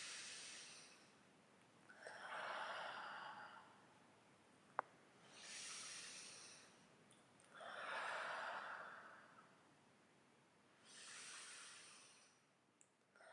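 Slow human breathing close to the microphone: about five soft breaths, alternating in and out, each lasting a second or two. A single small click falls about halfway through.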